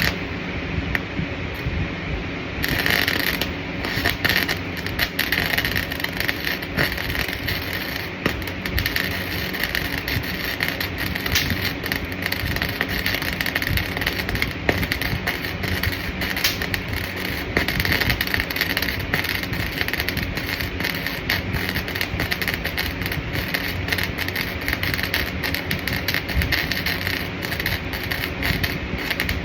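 Electric arc welding: the arc crackling and sizzling steadily, thick with fine spatter pops.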